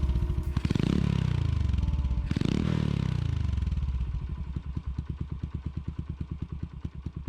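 Honda Super Cub engine bored up to 88cc, with a high-lift cam and PE24 carburettor, breathing through a Mizumoto Racing L-11 racing muffler: blipped twice, the revs falling away after each blip, then settling into an even idle from about four seconds in.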